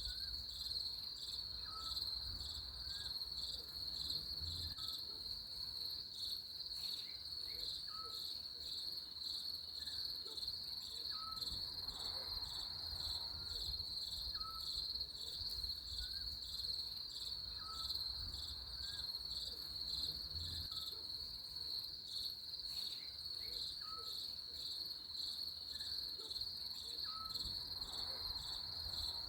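A steady, high-pitched, unbroken insect trill, typical of a cricket chorus, with a short lower chirp repeating about every second and a half.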